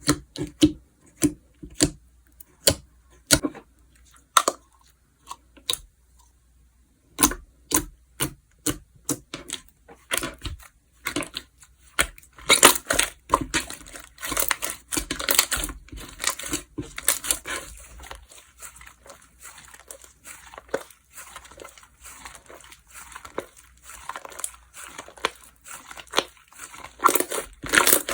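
Slime being pressed and played with by hand: a run of sharp pops, about two a second, a short pause, then more pops that give way to denser, continuous crackling and crunching through the second half.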